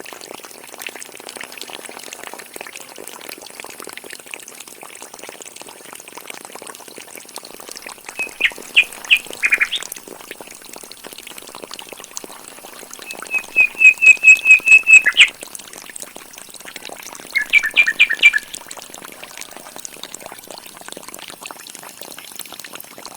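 A bird calling in three bursts of quick repeated high chirps, the middle burst the longest and loudest, over a steady background hiss.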